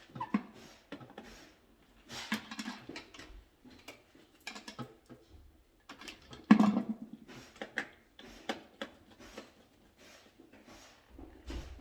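Irregular clicks, taps and rustles of small tools and parts being handled during electrical wiring work, with one louder knock about six and a half seconds in.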